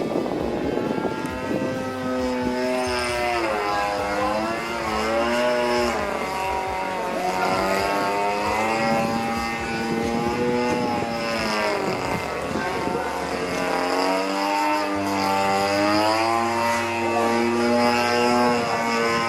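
26cc gasoline two-stroke engine of an RC aerobatic airplane in flight, running continuously with its pitch swinging up and down every few seconds as the plane manoeuvres.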